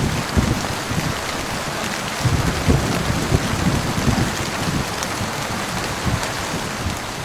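Heavy rain pouring steadily, with a low, uneven rumble of thunder underneath.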